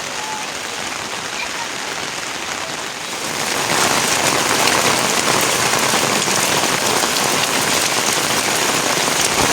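Steady rain falling and pattering on surfaces. The downpour grows heavier and louder about three and a half seconds in.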